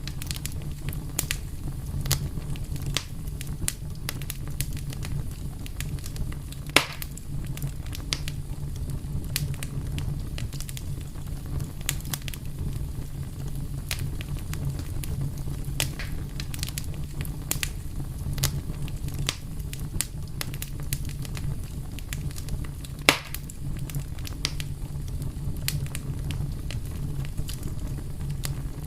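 Fire crackling steadily over a low rumble, with frequent small snaps and two louder pops, about 7 and 23 seconds in.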